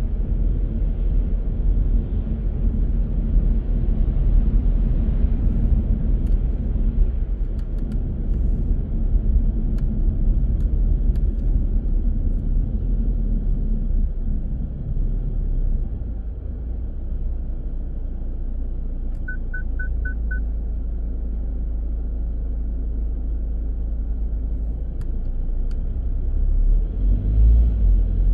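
Car driving through city streets: a steady road and engine rumble that eases about halfway as the car slows, runs steady and lower while it waits, then builds again near the end as it moves off. About two-thirds through, four quick high beeps sound.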